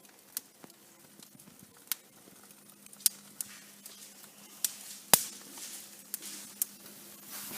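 Freshly lit paper-and-wood fire in a newly built brick fireplace, crackling with sharp irregular pops about a second apart, the loudest about five seconds in.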